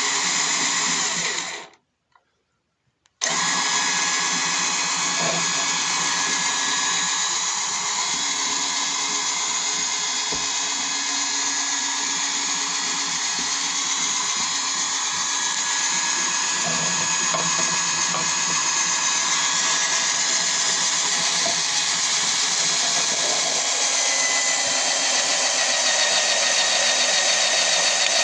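Cordless-screwdriver motor of a homemade 12-volt drill press running with a steady whine; it stops for about a second, then starts again about three seconds in and keeps running.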